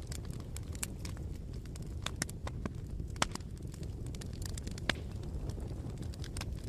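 Campfire burning, with steady low rumble and irregular crackles and pops of burning wood, a few sharper pops about two, three and five seconds in.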